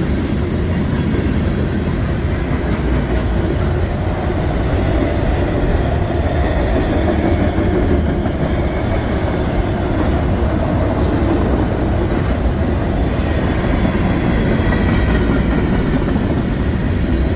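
A CSX mixed freight train's cars rolling past close by: a steady, loud noise of steel wheels running on the rails.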